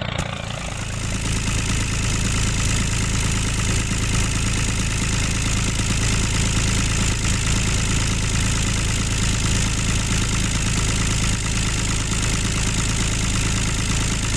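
A motor running steadily, an even drone with a low hum like an idling engine.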